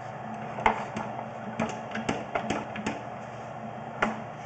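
Irregular sharp clicks and knocks of a sewer camera's push cable being fed into a blocked drain line, over a steady low mechanical hum.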